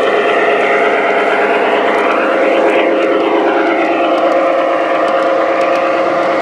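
Model train running on a layout: a steady motor hum with a whooshing sweep that peaks a little under three seconds in, as the train passes close by.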